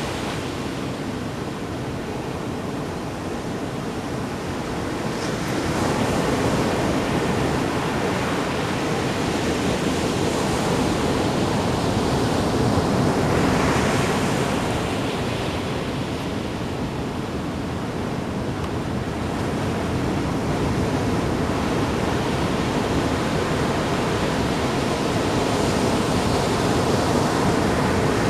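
Ocean waves breaking and washing on the shore, a steady rushing that swells and eases every several seconds, with some wind on the microphone.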